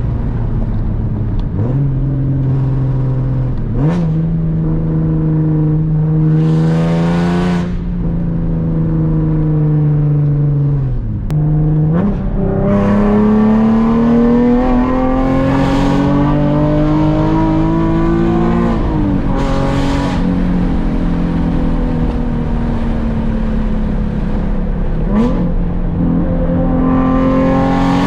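Nissan 370Z's 3.7-litre V6 running through a full Tomei exhaust while driving: the engine note climbs under acceleration and drops sharply at gear changes several times, with steadier cruising stretches in between.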